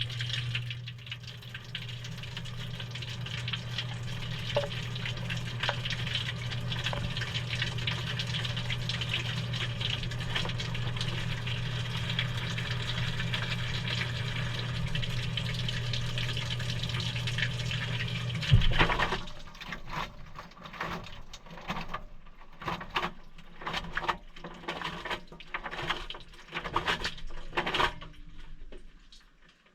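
Maytag washing machine filling with water: a steady rush of water over a low hum. It cuts off with a click about two-thirds of the way through, leaving an irregular trickling and dripping in the tub.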